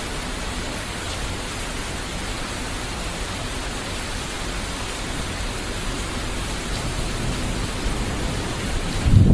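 Steady rain hiss, an even wash of noise with no single drops standing out. Near the end a low rumble comes up.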